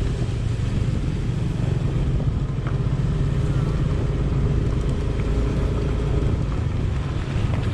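Motor vehicle engine and road noise while driving: a steady low rumble with a faint constant hum.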